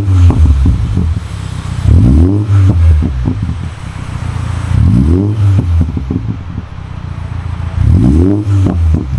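Mini Cooper Countryman S F60's turbocharged 2.0-litre four-cylinder, breathing through an aftermarket muffler kit, blipped four times about every two to three seconds and dropping back to idle between, with short crackles as the revs fall.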